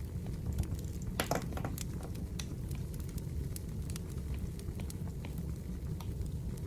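Burning firewood crackling, with scattered sharp pops over a steady low rumble and a quick cluster of louder cracks about a second in.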